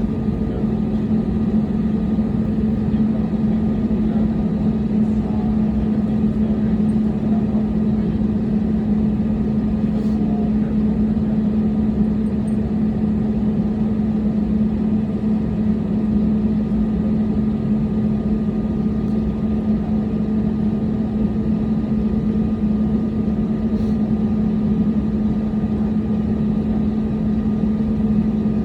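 Steady cabin drone inside a jet airliner: engines and cabin air running evenly, with a constant low hum and a fainter higher tone over a smooth rushing noise.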